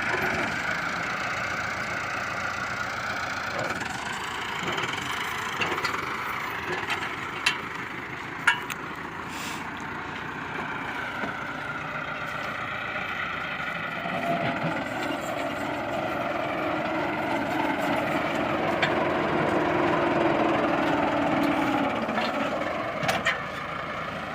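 Heavy farm machine's engine running steadily, its pitch shifting a few times, with a few sharp knocks.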